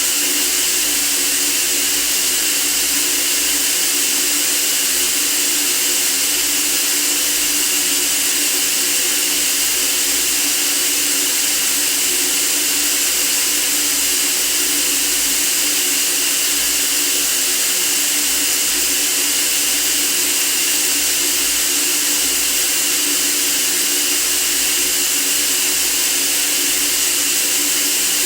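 Steady white noise: an even, unbroken hiss, brightest in the high range, with no change in level.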